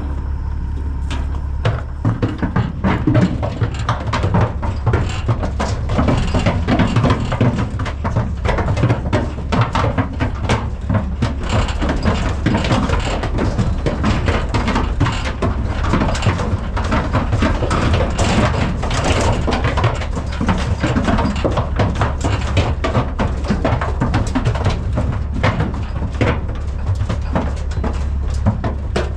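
Cattle hooves clattering and knocking on the floor and sides of a metal stock trailer as bulls are loaded. The knocks come thick and irregular over a steady low hum.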